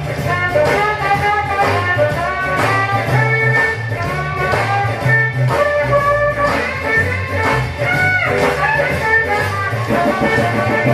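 Vintage rhythm-and-blues record playing: an instrumental stretch with horns and guitar over a steady, repeating bass line.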